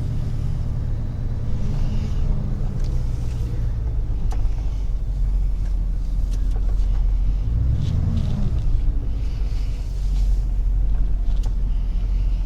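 Rollback tow truck's engine running as the truck drives, a steady low rumble whose pitch shifts a couple of times, rising and falling briefly about eight seconds in.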